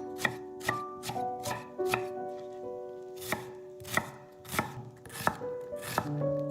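Kitchen knife chopping food on a cutting board: about a dozen sharp knocks at an uneven pace, roughly two a second, over soft background music.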